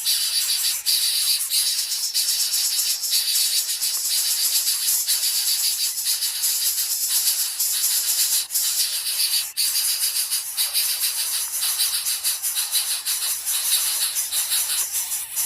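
Insects buzzing: a loud, continuous, high-pitched rasping chorus with a fast pulse.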